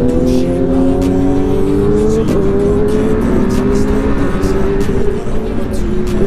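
Motorcycle engine pulling under acceleration, its pitch climbing steadily, then dropping at a gear change about two seconds in and running on at a steadier pitch, with wind rush over it.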